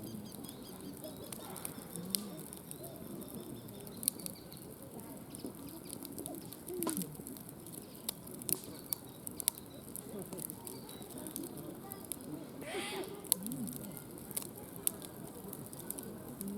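Wood campfire crackling, with scattered sharp pops throughout and one louder brief sound about thirteen seconds in. Faint distant voices or birds sound underneath.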